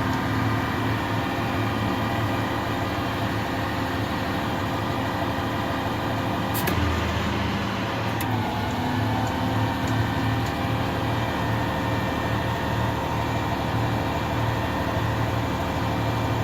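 Bucket truck's engine running with the PTO engaged, driving the hydraulic pump while the boom is operated: a steady drone. There is a click and a change in the low tone about seven seconds in, and another click about a second and a half later.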